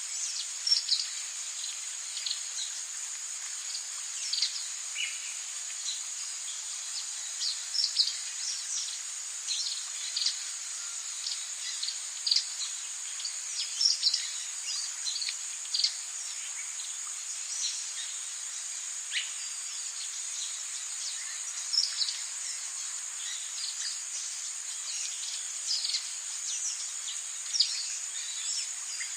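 Rainforest ambience: a steady high-pitched insect drone, with many short bird chirps and calls scattered throughout.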